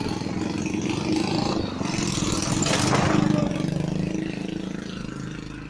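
A vehicle engine running, growing louder to a peak about three seconds in, then fading away.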